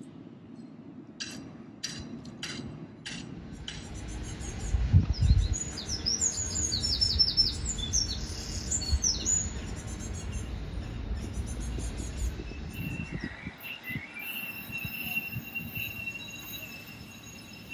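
Birds chirping in quick, repeated notes over a low outdoor rumble. A few sharp clicks come in the first few seconds, and a thin steady high tone sets in near the end.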